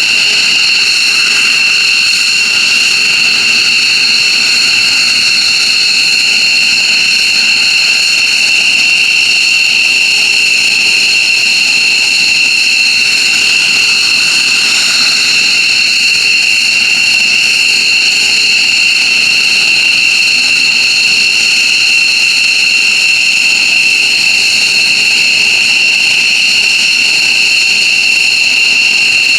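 F-15J Eagle's F100 turbofan jet engines running steadily on the ground, a loud, continuous high-pitched whine over a rushing roar.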